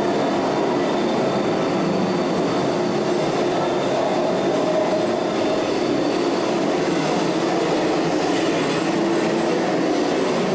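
Subway-style ride train running steadily, heard from inside the car: an even rumble with a faint steady hum through it.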